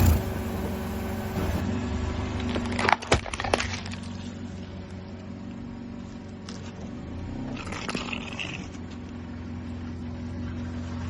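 A machine's motor runs steadily while something is crushed. Several sharp cracks come about three seconds in, and a crunching burst follows about eight seconds in.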